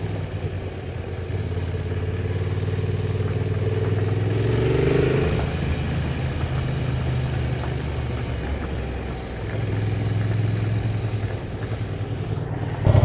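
Honda Transalp motorcycle engine running at trail pace, its revs rising briefly about four seconds in, easing off, then picking up again near the end.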